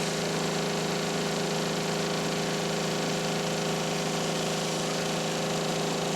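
A machine running steadily: a strong low hum with several steady tones above it and a hiss over the top, at an even level.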